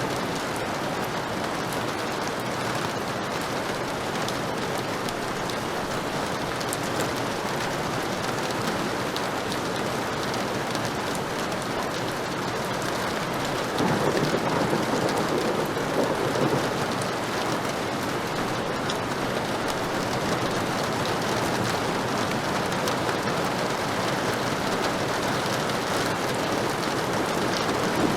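Heavy rain falling steadily as a dense, even hiss. About halfway through, a low rumble of thunder swells up suddenly and fades after a few seconds.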